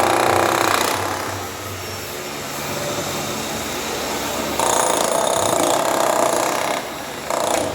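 Hilti drill running in bursts: loud through the first second, then again for about two seconds past the middle, and briefly near the end, with a quieter steady machine noise in between.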